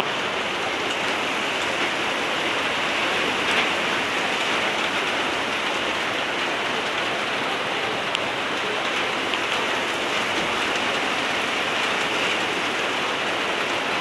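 Heavy rain pouring down in a downpour, a steady even hiss of rain on surfaces.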